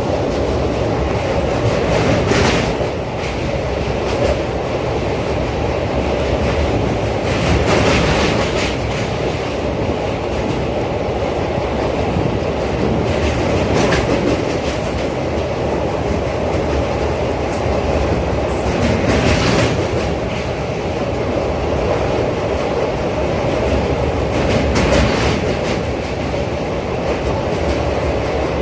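Train running steadily along the track, wheels rumbling and clattering, with a brief louder rattle about every five or six seconds.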